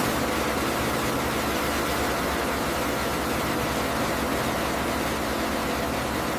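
Heavy machinery running steadily with a low, pulsing rumble under a loud, even hiss.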